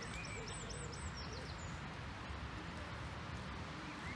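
Small songbirds chirping: a quick run of short, high, falling chirps in the first second or so, a few softer ones near the end, over a steady low outdoor rumble.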